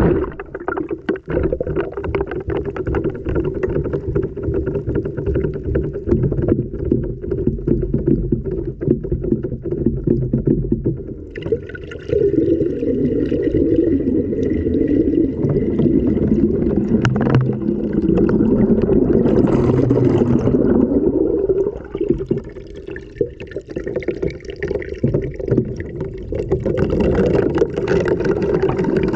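Washing machine wash cycle heard from inside the drum: water sloshing and the camera tumbling with the load, with many small knocks against the drum. The sound changes twice, about 11 and 22 seconds in.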